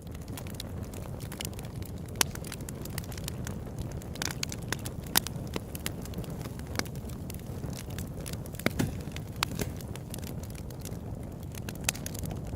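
Open-air wood campfire burning, with irregular sharp crackles and pops over a steady low rumble. The loudest pops come about two seconds and five seconds in.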